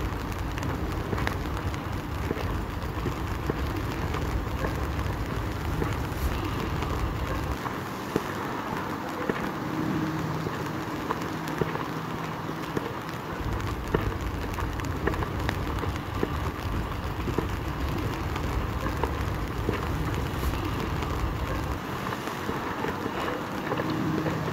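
Rain and wind on a city street with traffic: a steady hiss, with wind rumbling on the microphone in two long gusts, the first dying away about seven seconds in and the second lasting from about thirteen to twenty-two seconds in.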